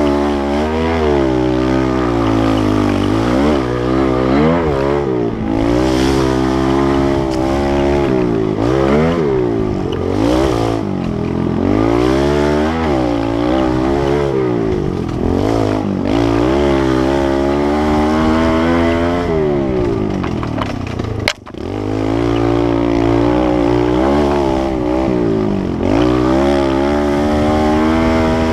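Kawasaki KLX110L pit bike's small single-cylinder four-stroke engine, close by, revving up and down over and over as the throttle is worked on and off. About three-quarters of the way through there is one sharp click with a brief dip in the engine sound before it picks up again.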